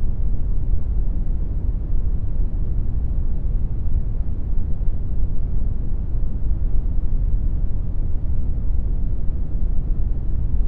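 Steady brown noise: an even, deep rumbling hiss with most of its energy in the bass, unchanging throughout.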